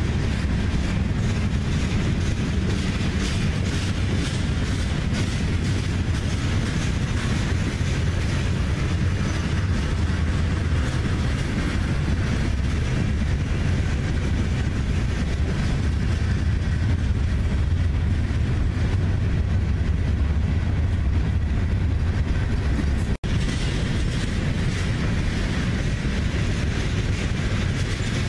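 Freight cars of a CSX manifest train rolling past: a steady low rumble with rapid clickety-clack of wheels over the rail joints. The sound drops out for a split second about three quarters of the way through.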